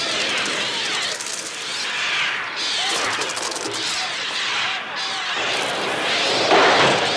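A dense, overlapping din of screeching gulls attacking, the film's electronically made bird cries (Mixtur-Trautonium), with a rapid fluttering rattle under the calls. It swells louder about six and a half seconds in.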